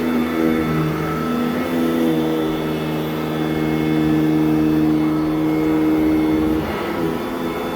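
Sanitaire SC899 commercial upright vacuum running steadily on carpet. Its motor hum shifts slightly in pitch now and then and dips briefly near the end.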